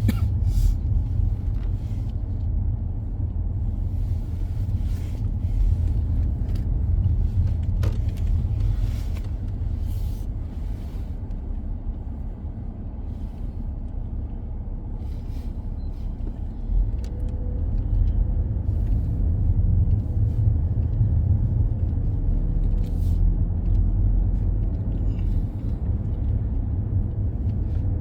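Car driving along a road: a steady low rumble of engine and tyres, with a few light clicks and rattles.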